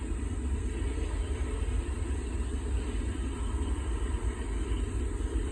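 Norfolk Southern freight train rolling past as it picks up speed, a steady low rumble.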